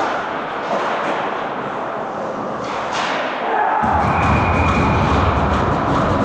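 Ice hockey play with sharp thuds of stick and puck on the ice and boards. About four seconds in, the arena's speakers start loud goal-celebration music with sustained horn-like tones and heavy bass, marking a goal just scored.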